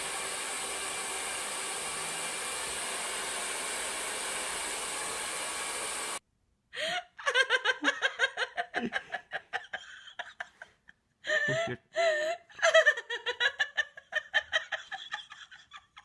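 A steady rushing noise that cuts off suddenly about six seconds in. Then a person laughs hard in quick, repeated bursts with short breaks.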